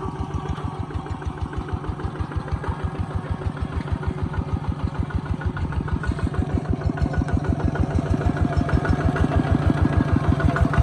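Kubota ZT140 walking tractor's single-cylinder diesel engine running with a steady, even beat of firing pulses, getting a little louder toward the end.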